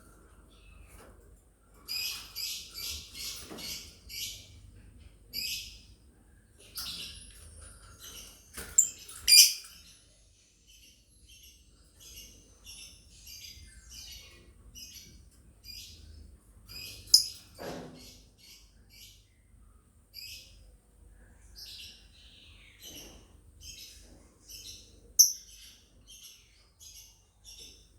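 Lovebirds chirping in short, high chirps: a quick run of about six in a row about two seconds in, then scattered chirps with a few sharp louder ones.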